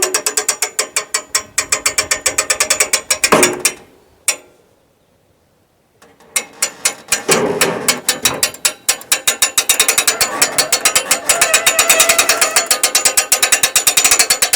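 Ratchet wrench clicking rapidly as a bolt is run in on the sawmill frame. There are two long runs of clicks, with a pause of about two seconds after the first.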